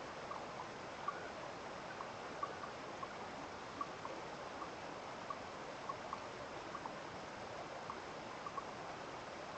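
Steady rush of running water, with small irregular plinks of water drops scattered over it, one or two a second.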